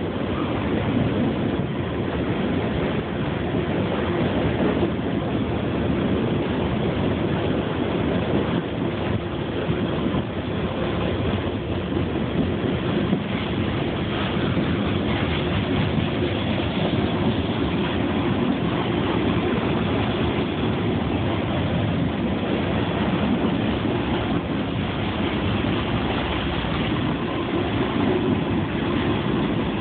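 Open coal hopper cars of a CSX freight train rolling past, a steady rumble of wheels on the rails.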